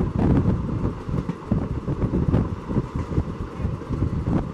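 Passenger train coach running along the track, heard close up from its open doorway: a steady low rumble of wheels on rail with irregular sharp knocks.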